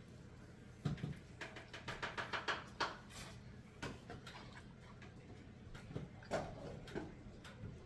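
Close-miked eating of a seafood meal: a quick run of about a dozen wet clicks and smacks of chewing about a second and a half in, with scattered single clicks from handling the crab legs.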